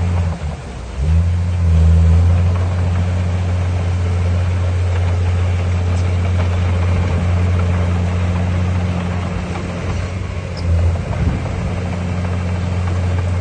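Heavy construction machine's diesel engine running steadily with a deep drone. It drops briefly just after the start and picks up again about a second in.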